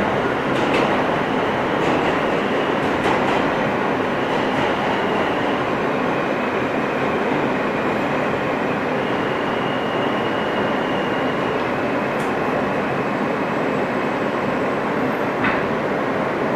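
Steady noise of an R160 subway train heard from inside the car, with scattered clicks and a faint high whine that comes and goes twice.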